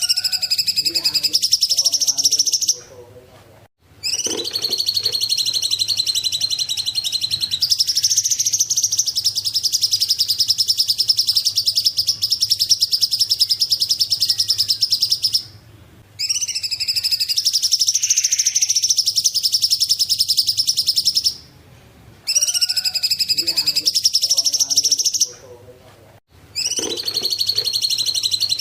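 Song of the cungkok bird: long, fast, high-pitched trills that run for several seconds at a time, broken by four short pauses.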